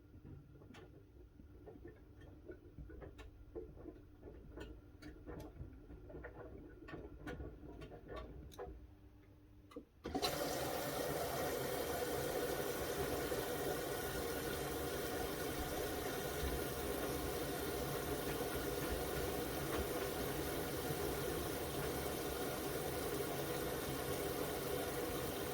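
Miele W1 front-loading washing machine: a few quiet clicks and a faint hum at first, then about ten seconds in a sudden, steady rush of water as the inlet valve opens and water flows into the drum.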